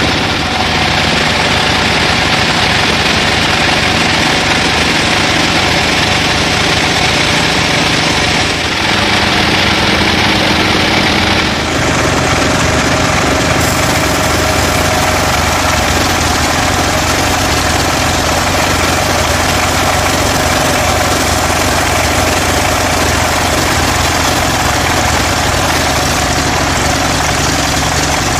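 Sawmill saw machine running steadily and loudly, a dense machine noise with steady hum tones; its sound changes abruptly about nine and again about twelve seconds in.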